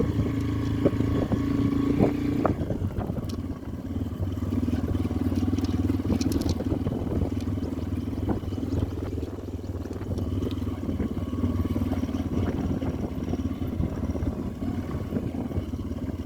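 Motorcycle engine running steadily while riding, with a few light knocks.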